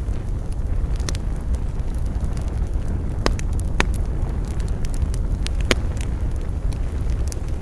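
Wood campfire burning: a steady low rumble of flames with scattered crackles and sharp pops, three louder pops coming a few seconds in.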